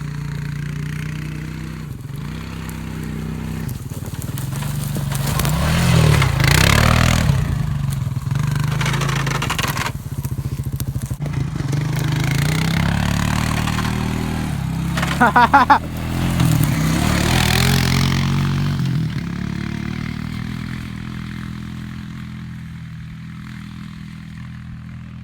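Four-wheeler (ATV) engine revving up and down as it rides across the field, with a short rapid stutter about fifteen seconds in as the loudest moment, then the engine note fading away.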